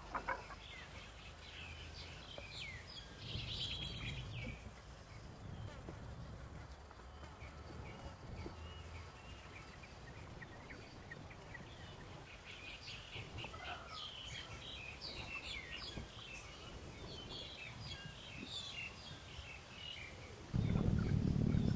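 Small birds chirping in short repeated calls over a low background rumble. About a second before the end, a loud low rumble cuts in suddenly.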